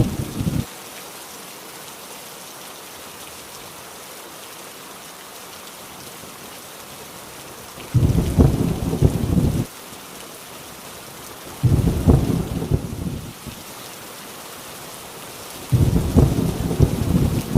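Steady heavy rain with low thunder rumbles breaking in over it. A rumble fades out less than a second in, then three more rumbles come, each starting and stopping abruptly, the last running on at the end.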